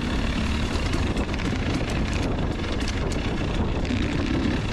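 Two-stroke dirt bike engine running steadily while riding a trail, with wind buffeting the microphone.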